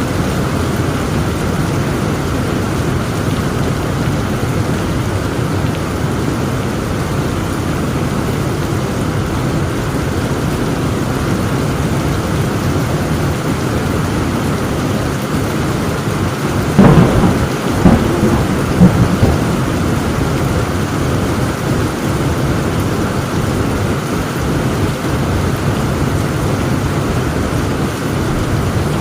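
Heavy rain falling steadily, with a close thunderclap about two-thirds of the way in that breaks into several sharp, loud cracks over about two seconds.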